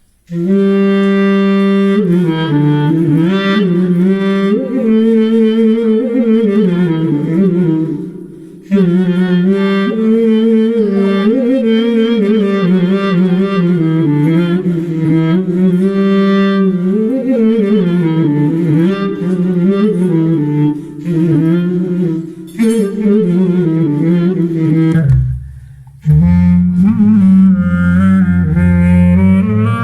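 Clarinet-like tone from a Zoom G3n multi-effects pedal's clarinet patch, playing a single-note melody with a wavering pitch. About 25 seconds in the tone stops briefly and comes back lower and fuller.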